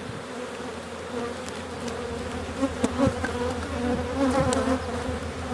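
Honey bees buzzing in large numbers around an opened hive, a steady hum, with a few faint clicks.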